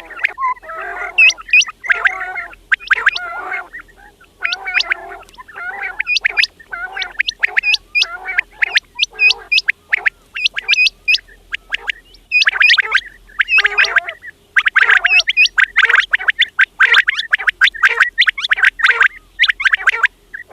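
Quails calling over and over in a rapid run of short, sharp calls, with the calls coming thicker in the second half.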